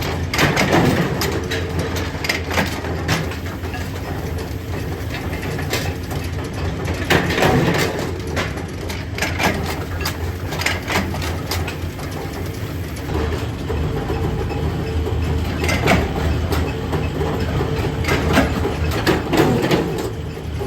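Workshop machinery running with a steady low hum, with frequent irregular metal knocks and clanks.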